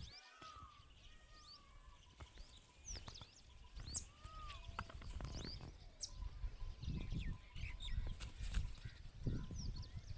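Several birds calling at once: many short chirps and quick high-pitched sweeping whistles, with some lower arched whistles, over bursts of low rumbling noise.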